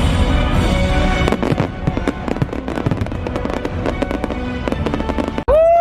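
Fireworks crackling in rapid, dense bursts of sharp pops over loud show music with a booming low end. Near the end the sound cuts off abruptly and rising whistling tones begin.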